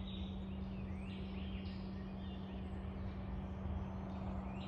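Wild birds chirping in short, falling notes, over a steady low hum and rumble.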